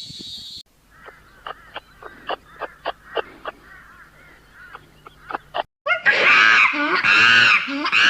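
Animal calls from spliced clips: a brief hiss, then a dozen or so short, sharp calls at irregular intervals, then from about six seconds in a run of loud, pitched, arching calls.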